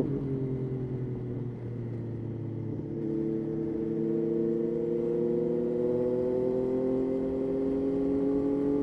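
Yamaha Tracer 9's 890 cc inline three-cylinder engine heard from the bike itself. The engine note falls as the bike slows for the first few seconds; about three seconds in it picks up, and its pitch then climbs slowly and steadily under light acceleration.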